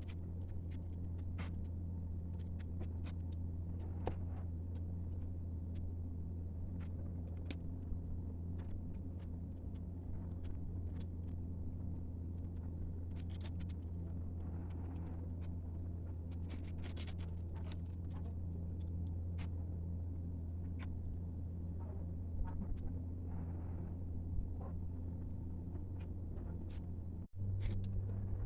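A steady low hum with scattered small clicks and brief crinkling rustles of paper being handled.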